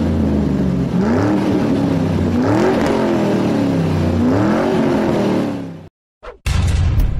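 Car engine revving up and falling back about three times, then fading out. Music with a steady beat starts about six and a half seconds in.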